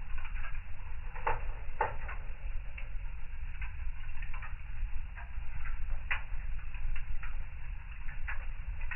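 Wood fire burning in a fireplace: irregular crackles and pops over a steady low rumble, with sharper pops about a second in, just before two seconds, and around six seconds.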